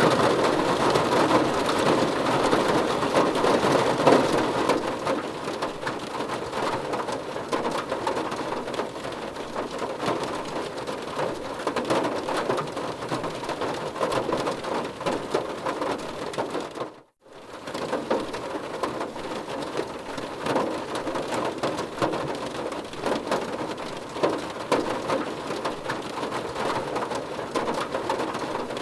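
Steady heavy rain, a dense even patter of drops on a surface. About 17 seconds in it cuts out for a moment and then fades straight back in, an edit where the recording loops.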